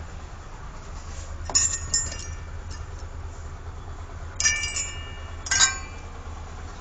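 Metal tools or parts clinking together with a short ringing, four times, over a steady low hum.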